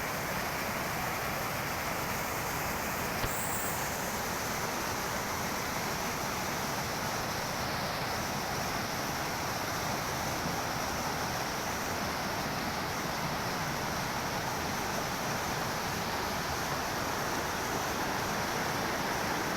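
River water rushing, a steady, even wash of noise with no break.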